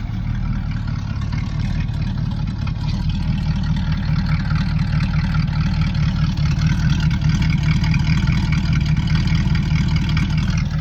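1966 Chevrolet C10 pickup's engine idling steadily through freshly fitted 2.5-inch tailpipes. The owner calls the exhaust note a little crisper than with 3-inch pipes.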